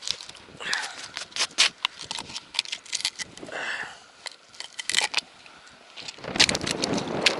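Quick sharp clicks and small rattles of close handling. About six seconds in, wind starts buffeting the microphone.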